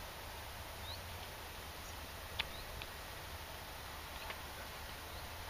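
Quiet woodland ambience: small birds giving short, high, upward chirps every second or so, with a few sharp ticks, over a steady background hiss.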